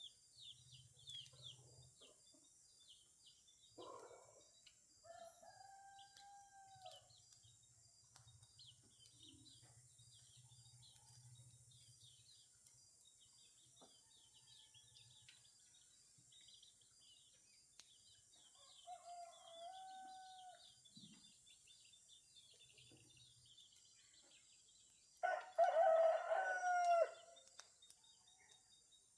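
A rooster crows once near the end, loud and drawn out, over a steady chorus of small birds chirping and a high hiss. A few shorter calls from other fowl come earlier.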